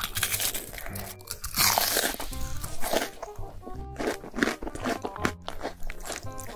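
Crunching as a bite of deep-fried breaded cheese cutlet is chewed close to the microphone, with music playing underneath.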